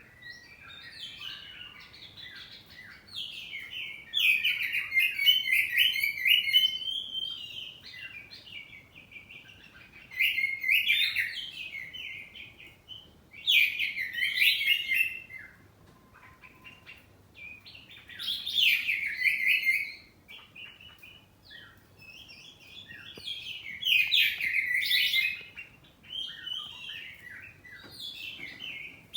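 Oriental magpie-robin (kacer poci) singing loud, varied phrases of quick whistles and chirps. Phrases of one to three seconds alternate with short quieter gaps, about six or seven times.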